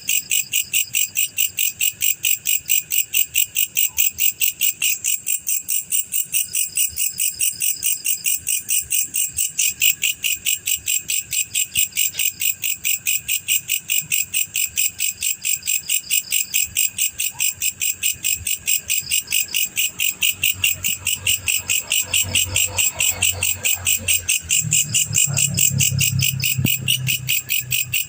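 Male black cricket chirping in a fast, even run of chirps, several a second, without a break.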